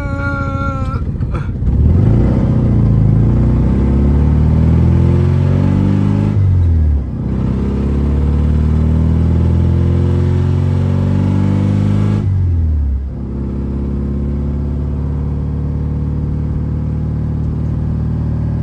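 BMW E36's engine and exhaust pulling hard through two upshifts: the pitch rises, drops at each gear change, about 6 and 12 seconds in, and then settles into a steady cruise.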